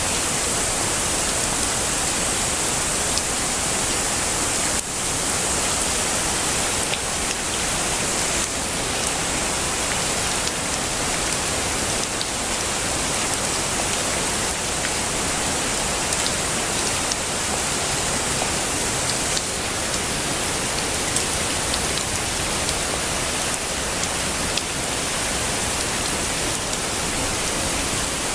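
Heavy rain falling steadily, an even hiss with no thunder, briefly dipping in level about five seconds in.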